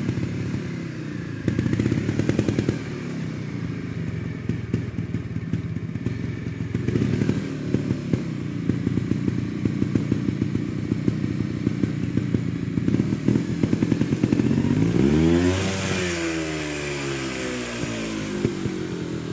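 Trials motorcycle engine running at low revs with short throttle blips and some clattering. About three-quarters of the way through the engine note climbs and then falls away again, the loudest moment.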